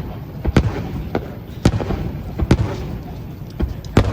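Fireworks display: aerial shells bursting overhead in a series of sharp booms at uneven intervals, about six in four seconds, over crowd noise.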